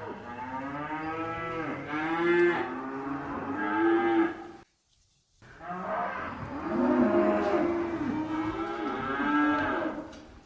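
Several cattle mooing, their calls overlapping, in two stretches separated by a brief cut to silence about five seconds in.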